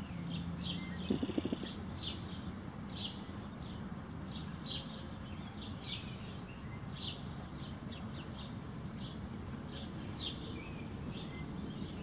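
Bird chirping repeatedly: short high chirps about two to three times a second, running on steadily, with a brief patch of soft clicks about a second in.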